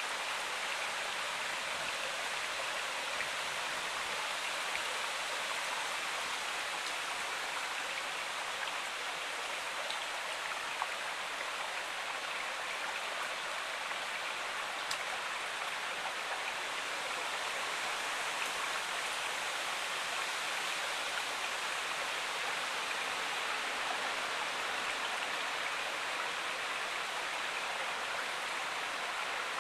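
Stream water flowing over rocks: a steady, unbroken rush with a few faint splashes and ticks.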